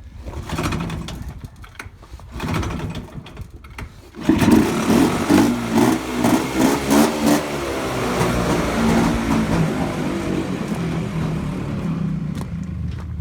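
Tractor engine turning over in uneven bursts, catching about four seconds in and revving, then running steadily.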